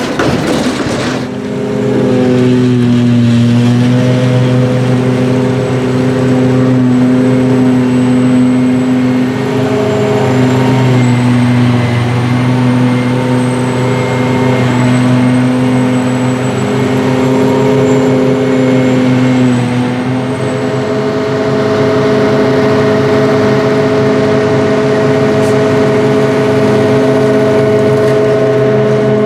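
Heavy diesel engine of silage-harvesting machinery running steadily under load. Its pitch shifts slightly about two seconds in and again around twenty seconds in, with a faint wavering high whine over it for a while.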